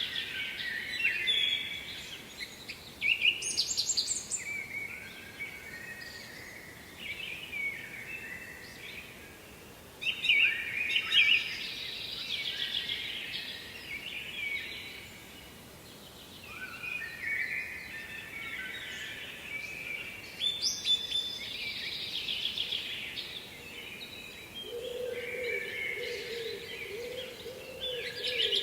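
Songbirds singing, phrase after phrase of fast trills and warbles, over a faint steady rush of water from the waterfall. A low wavering call joins in near the end.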